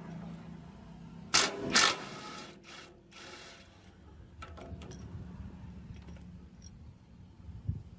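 Steady low mechanical hum with several short, loud noisy bursts, the loudest two coming in quick succession about a second and a half in, then a few clicks in the middle and a short thump near the end.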